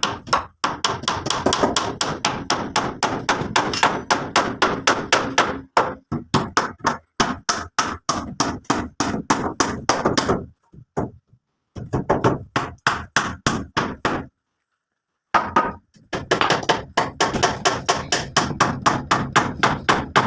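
Rapid, even chopping strikes with a blade, about four blows a second, in three runs broken by two short pauses.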